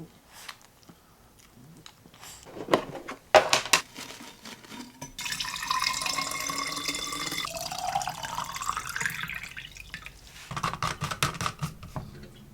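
Kitchen tap running into a container for about five seconds, the pitch rising as it fills. Knocks and clatter come before and after the filling.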